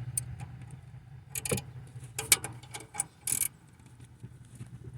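A hand wrench clicking and clinking against metal as it is worked onto an exhaust stud: irregular light clicks with a few short scrapes. A steady low hum runs underneath.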